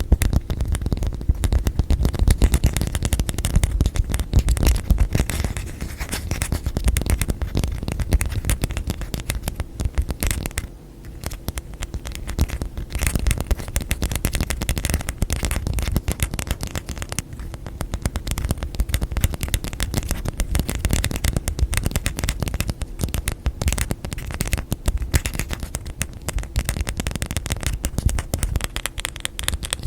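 Fast, dense hand tapping and scratching on objects and lids close to the microphone: a continuous run of quick clicks and scrapes with a heavy low thud underneath, easing briefly about eleven seconds in.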